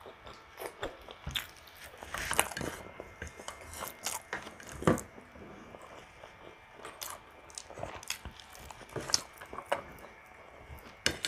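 Mouth sounds of someone eating pork ribs kaldereta and rice by hand: chewing and lip smacks, with short irregular clicks throughout.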